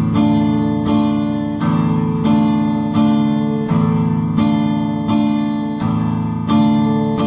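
Acoustic guitar strumming a D minor chord in a steady three-beat waltz rhythm: a bass stroke on the low strings, then two strums on the upper strings, with the chord ringing between strokes. The strokes come evenly, a little under one and a half per second.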